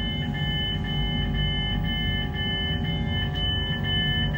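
Train door warning beeper sounding a rapid run of electronic beeps, about two a second, over the steady hum of the train carriage as it stands at a station.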